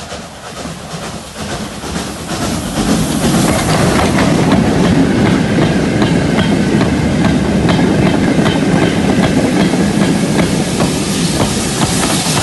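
Steam-hauled freight train coming past: its rumble builds over the first three seconds and then stays loud, with the wagons' wheels clattering over the rail joints in a steady run of clicks.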